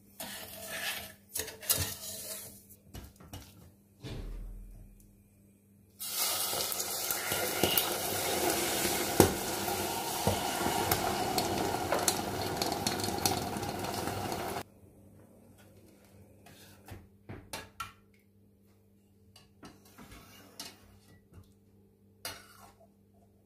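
Kitchen work with dishes and utensils: scattered clinks and knocks of crockery and cutlery, then about eight seconds of steady hiss that starts and stops abruptly, followed by a few more light clinks.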